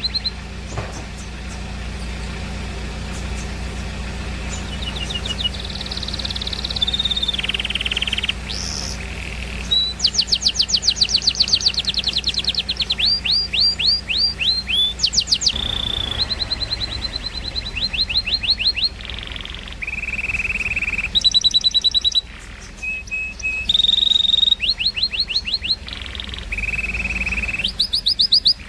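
Canary and lovebird song: rapid trills of quickly repeated sweeping notes, held high whistles and short chirps, in phrases with brief pauses, over a steady low hum.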